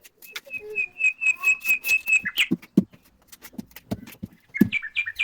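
A bird calling: a quick run of about eight short, even notes, then a shorter burst of notes about four and a half seconds in. Light knocks and clicks sound in between.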